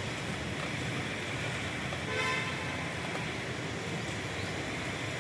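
Road traffic with a short vehicle horn toot about two seconds in.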